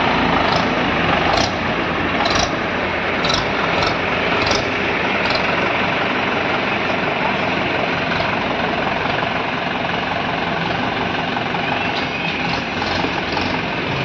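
Heavy diesel machinery engine running steadily, with several sharp knocks in the first few seconds.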